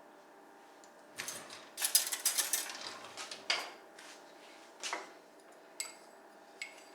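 Kitchen clatter as a cup of all-purpose flour is measured into a stand mixer bowl: a run of scraping and clinking from a measuring cup and utensils, then a few single taps near the end.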